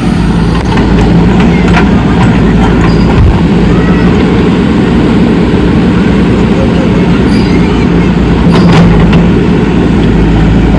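JCB 3DX backhoe loader's diesel engine running steadily under work, with a few sharp knocks.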